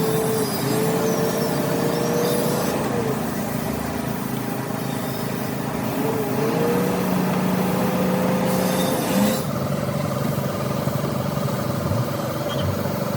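A vehicle engine running steadily, its pitch dipping and rising slightly, with two short hisses over it.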